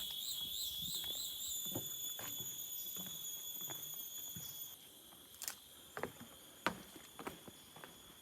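A high insect buzz, pulsing about four times a second and then held steady, fades a little under five seconds in. Footsteps knock on a wooden boardwalk, irregular and clearer once the buzz drops.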